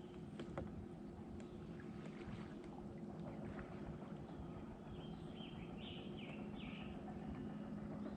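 Quiet lake ambience around a fishing kayak: a low steady hum and small water sounds against the hull, with a bird giving a short run of four or five chirps about five to seven seconds in.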